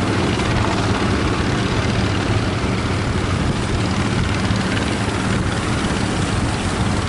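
Fishing boat engine running steadily with a low, even hum, over a loud rushing noise of wind and surf.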